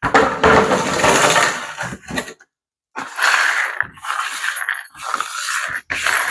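Plastic pool-ladder parts being handled and shifted about, a loud clatter in two stretches with a short pause between them.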